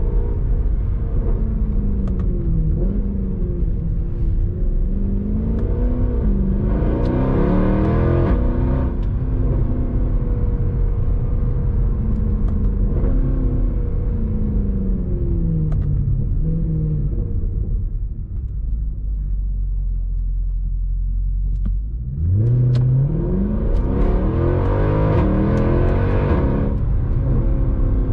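Mercedes C63 AMG's naturally aspirated 6.2-litre V8 accelerating through the gears, its note climbing and then dropping at each upshift. It eases off and goes quieter for a few seconds about two-thirds through, then pulls hard again with a steeply rising note near the end.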